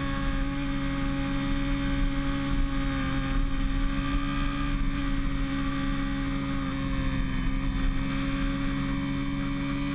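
Motorcycle engine held at steady high revs, its pitch dipping slightly through the middle and climbing back near the end, over a low rush of wind.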